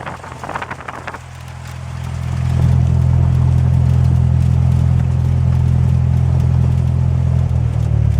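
Cessna 172's piston engine rising in power over a couple of seconds, then running steadily at the higher setting.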